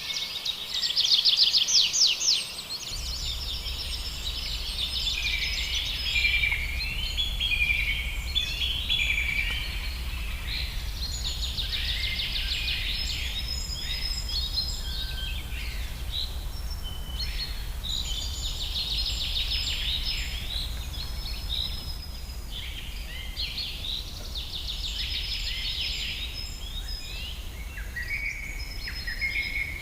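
Several wild birds singing and calling over one another in short, high chirping phrases and rapid trills. A steady low rumble comes in about three seconds in and runs underneath.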